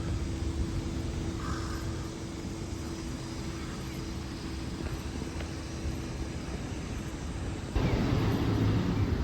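Steady low rumble of a moving vehicle with a faint steady hum. About three-quarters of the way through it steps up suddenly to a louder, rougher rumble.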